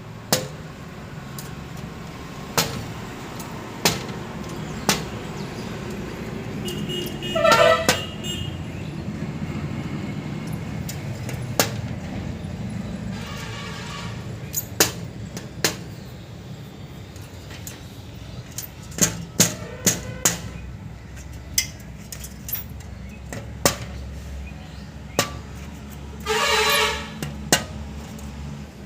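A woodpecker pecking: single sharp knocks at irregular intervals, several seconds apart, over a steady low rumble. Two short honks stand out, one about a quarter of the way in and one near the end.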